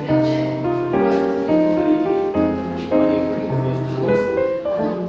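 Smooth jazz piano music, chords and melody notes changing about every half second.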